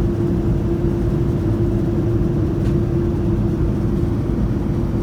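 Steady cabin noise inside a Boeing 787-9 airliner in flight: a low, even rumble of engines and airflow with a steady hum.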